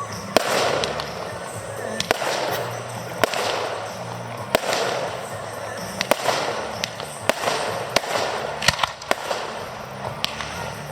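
Fireworks display: sharp bangs of shells bursting about once a second, with swells of hiss in between.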